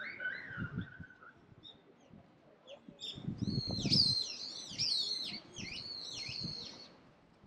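A small songbird singing a quick run of high, repeated swooping notes, with a few dull low thumps underneath.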